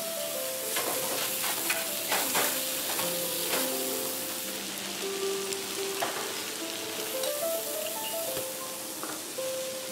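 Food sizzling steadily in hot fat on a flat-top griddle (plancha): fish fillets frying in foaming fat and steaks searing. A few sharp clicks stand out, with soft background music underneath.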